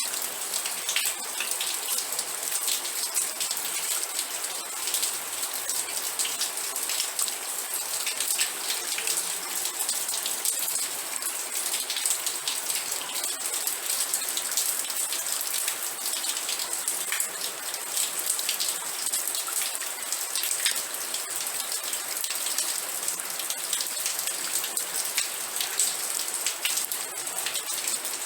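Steady rain falling, with many close drops ticking on a surface over an even high hiss.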